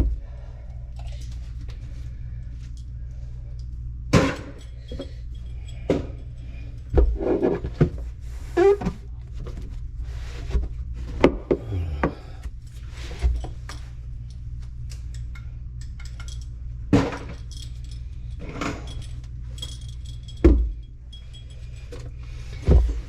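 Plumbing parts and tools being handled under a kitchen sink: irregular clinks, knocks and clatters, over a steady low hum.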